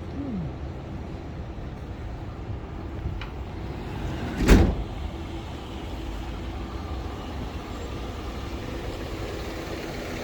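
Road traffic on a city street, a steady low rumble of passing vehicles. About halfway through comes one brief, loud rush.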